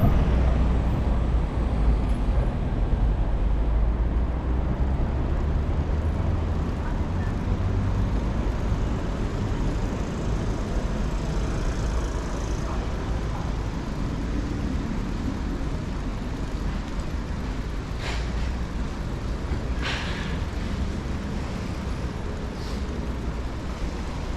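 City street traffic: a steady low rumble of motor vehicles that slowly fades, with a few short higher-pitched sounds near the end.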